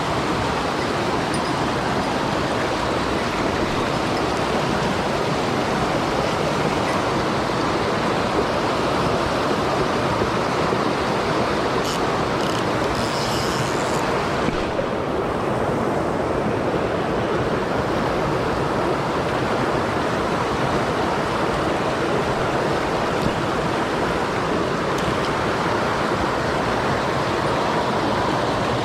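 Mountain stream rushing over rocks, a steady close-up water noise. A few faint light clicks come briefly about halfway through.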